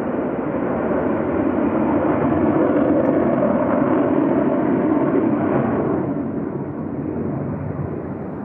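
Fighter jet engine noise, loud and steady, building over the first few seconds and fading from about six seconds in.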